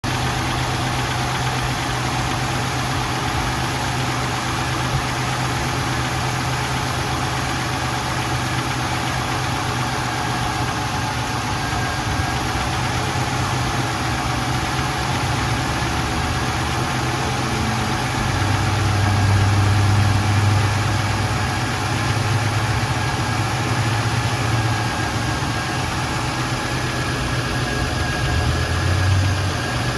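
1996 Chevrolet Monte Carlo's 3.1-litre V6 engine idling steadily, growing a little louder for a few seconds about two-thirds of the way through and briefly again near the end.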